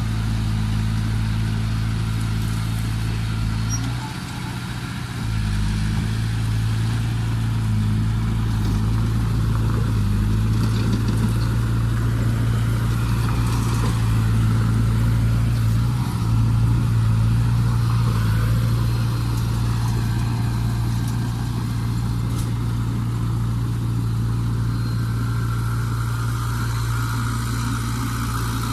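Heavy diesel engines of a bulldozer and dump truck running steadily, working to free a truck stuck in mud, with a brief dip in level about four seconds in.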